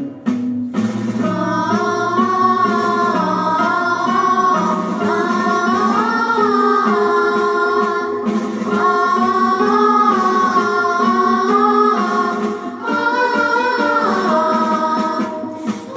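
A woman singing a song with instrumental accompaniment, her voice coming in about a second in after a short instrumental passage.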